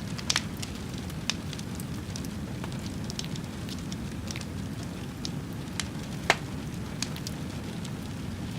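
Wood fire crackling: a steady low rush with scattered sharp pops and snaps, the loudest a little after six seconds in.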